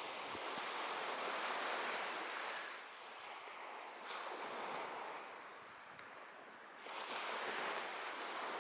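Sea waves breaking and washing on the shore, the noise swelling and ebbing in slow surges, dying down a little past the middle and building again about seven seconds in.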